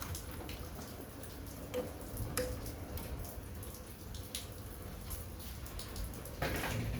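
Scattered light clicks and taps from handling the casing of a wall-mounted air-conditioning unit, with a longer scraping shuffle near the end, over a low steady rumble.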